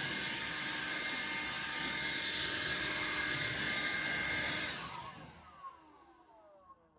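Electric blower motor running with a steady rushing whine, switched off just under five seconds in; its whine falls in pitch as the fan spins down.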